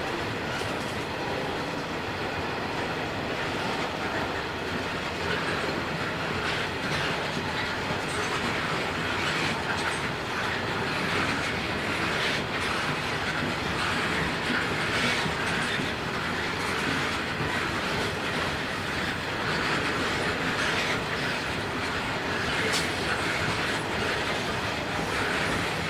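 Loaded coal hopper wagons of a long freight train rolling steadily past, the wheels clicking and clattering over the rails.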